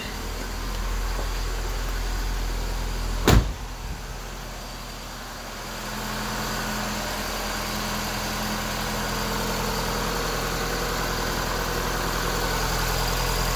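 1985 Honda Prelude's dual-carburetor four-cylinder engine idling steadily, settled at a normal, not fast, idle. A single loud thump about three seconds in, the car door being shut.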